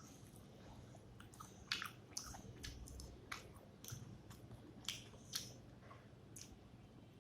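A person chewing a mouthful of rice and fish curry close to the microphone, with irregular short mouth clicks and smacks, a few of them louder.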